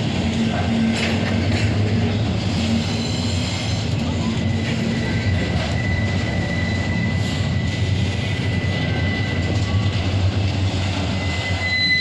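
Intermodal freight train rolling past with a steady rumble of wheels on rail. A thin, high wheel squeal comes in about halfway through and holds.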